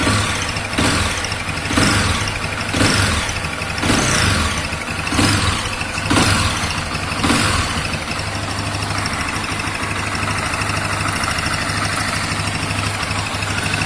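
Honda Twister (2021) motorcycle's single-cylinder engine running, rising in short swells about once a second, seven times, each falling back, then settling to a steady idle. The owner hears a strange noise from the engine and does not know its cause.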